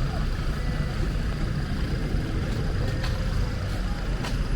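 Steady outdoor street noise: a continuous low rumble with a few faint clicks.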